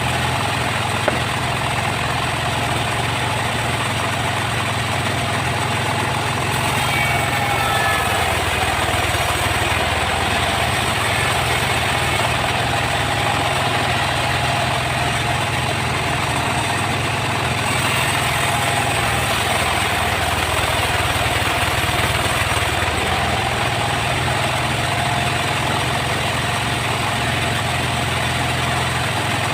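Sawmill machinery running steadily with a continuous engine hum, and a faint whine that wavers through the middle.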